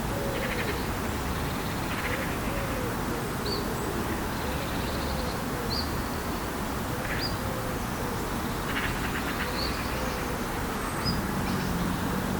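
Birds calling over a steady outdoor hiss: a low call repeating about once a second, short high chirps and a few harsh, rasping calls. A low steady hum comes in near the end.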